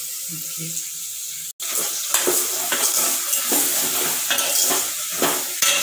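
Chopped carrots, shallots and tomatoes sizzling in hot oil in an aluminium pot, while a steel ladle stirs and scrapes against the pot with quick clinks. The sound drops out for an instant about a second and a half in.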